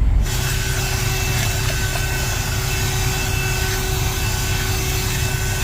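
Steady engine-like drone with a faint constant whine on top, unchanging throughout.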